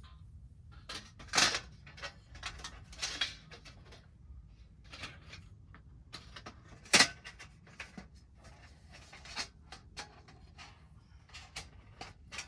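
Objects being handled: scattered clicks, knocks and rustles, with two louder knocks, one about a second and a half in and one about seven seconds in.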